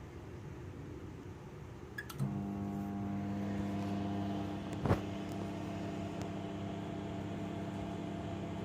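Microwave oven starting up: a short keypad beep, then about two seconds in the oven comes on and runs with a steady electrical hum as it begins heating. A single sharp click comes about five seconds in.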